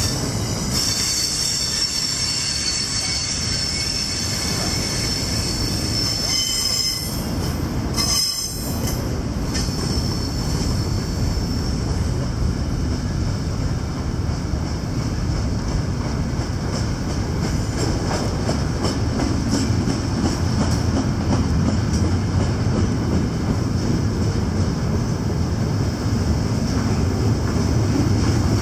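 Double-stack intermodal container train rolling past, its steel wheels squealing high on the rails for about the first nine seconds over a steady rumble. The squeal then fades and the rumble of the passing well cars carries on, growing a little louder near the end.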